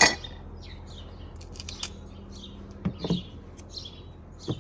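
A bird chirping over and over, about two short high calls a second. A sharp click at the very start and a couple of soft knocks about three seconds in.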